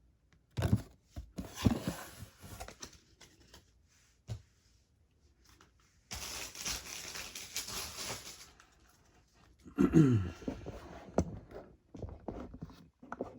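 Trading-card pack wrapper being torn open and crinkled, in several separate bursts. A brief falling, lower-pitched sound comes about ten seconds in.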